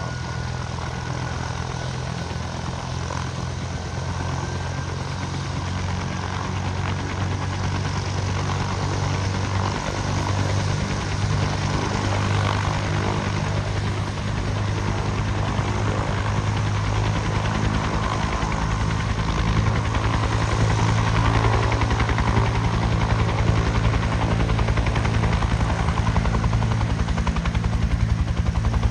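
Bell UH-1 Huey helicopter running its rotor and turbine with a low, steady beat, growing gradually louder as it readies to take off.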